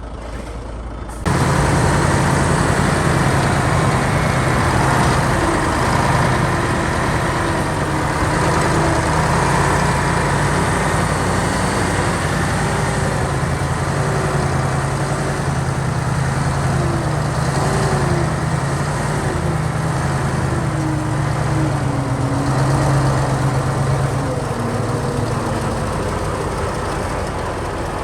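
Heavy diesel engine of earthmoving machinery running steadily under load, its pitch wavering up and down; it cuts in abruptly about a second in.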